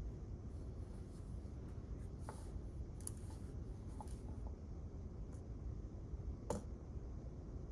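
Quiet library ambience: a steady low hum of room air, with a few faint small clicks or taps scattered through it, the loudest about six and a half seconds in.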